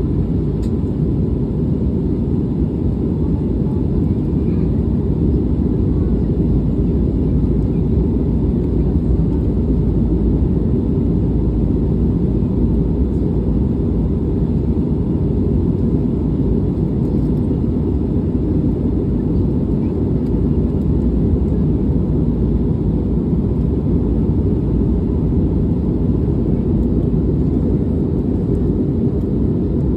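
Steady low rumble of a jet airliner heard from inside the passenger cabin: engine and airflow noise, even and unchanging.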